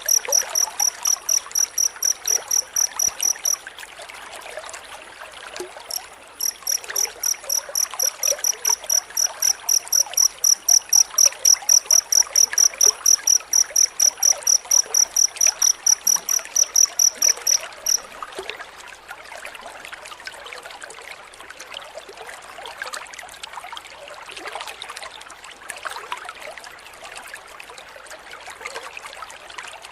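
Cricket chirping in a fast, even run of high chirps, pausing briefly a few seconds in and stopping about 18 seconds in. A steady trickle of running water goes on underneath.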